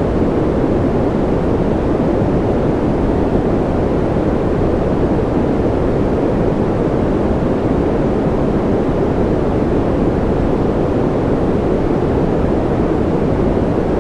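Continuous white noise played for baby sleep: a steady, deep rushing hiss with no tones and no changes.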